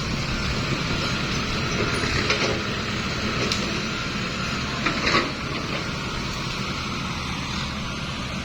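Dump truck engine running steadily, with a few short metallic knocks and clanks around the middle.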